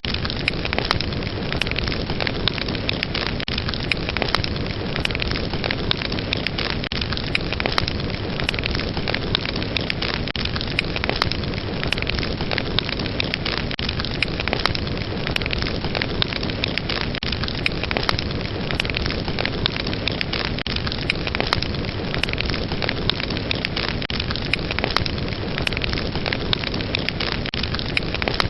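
Wood fire burning in a fireplace: a steady rush of flames with frequent sharp crackles and pops.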